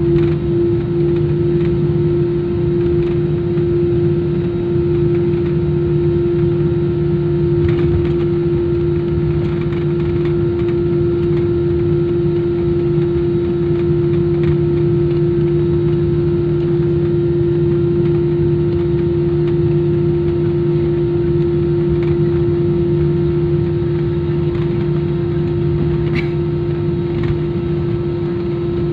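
Steady engine drone inside an airliner cabin just after landing: a constant hum over a rushing hiss, with a few faint clicks.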